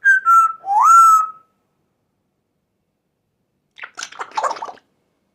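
African grey parrot whistling: a short tone that dips slightly, then a rising whistle that levels off and holds for about half a second. A brief scratchy, mumbled sound follows a few seconds later.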